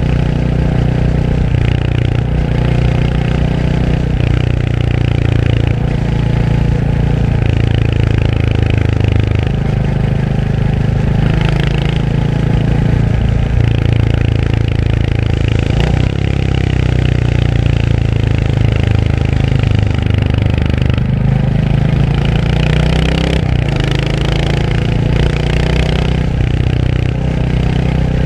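Royal Enfield Hunter 350's single-cylinder engine running under way, its pitch rising and falling several times as the throttle opens and closes.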